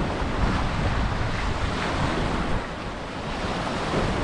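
Strong wind buffeting the microphone with an uneven low rumble, over the steady wash of a rough sea breaking on the shore.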